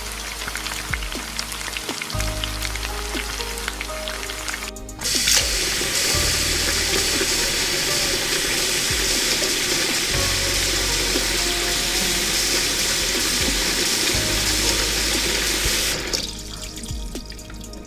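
Background music. For the first few seconds there is light crackling while cooking oil is poured into a small clay pot. About five seconds in, a loud, steady sizzle starts as noodles deep-fry in the hot oil, and it cuts off about two seconds before the end.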